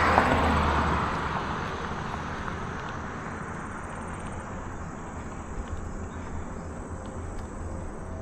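A car passing by, its tyre and engine noise peaking at the start and fading away over about two seconds, leaving a steady low rumble of wind and riding noise.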